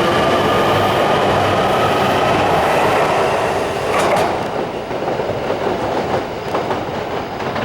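E3 series 2000 Shinkansen train running out of the station, with a steady whine over continuous wheel and rail noise. About four seconds in there is a sharp sound, and after it the noise drops a little and irregular clicks of the wheels over rail joints and points follow.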